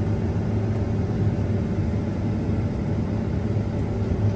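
Combine harvester engine running with a steady low drone, with no change in speed.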